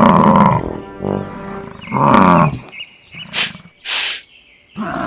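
Three loud, long animal bellows, each falling in pitch, followed by two short hissing whooshes; music starts near the end.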